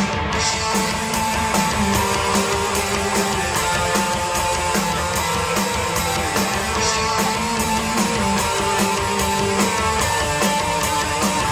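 Rock band playing an instrumental passage: two electric guitars, bass guitar and drums, with cymbals struck at a steady beat.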